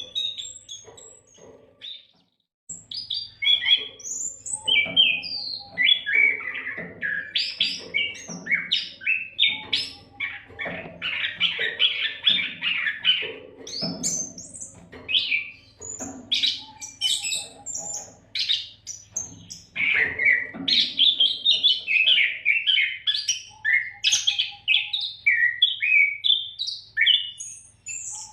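Oriental magpie-robin (kacer) singing a continuous, varied song of rapid chirps and whistles, with a brief pause about two seconds in.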